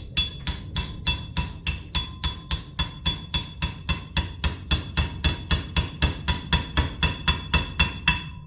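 Small hammer tapping steadily on a bolt, about four strikes a second, each with a short metallic ring, driving it into an aluminum hose fitting to expand the metal round. The tapping stops just before the end.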